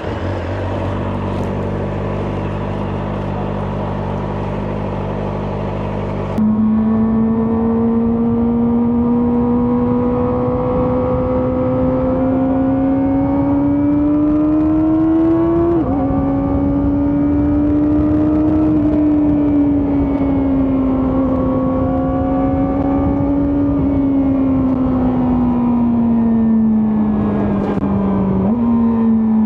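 Kawasaki ZX-4RR's 399 cc inline-four engine and exhaust, first idling steadily. From about six seconds in the bike is ridden: the engine note climbs slowly under throttle, drops sharply with a gear change about halfway, then rises and eases off again.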